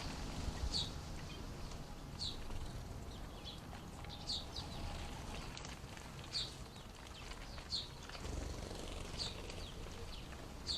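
A small garden bird calling with short, high chirps that drop in pitch, repeated about once every second or so, over a low background rumble.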